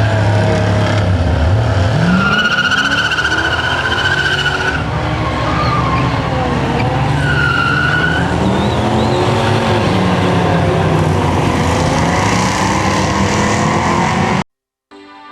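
A car engine revving hard with its tyres squealing in two long screeches, a burnout. The sound cuts off suddenly near the end and music begins.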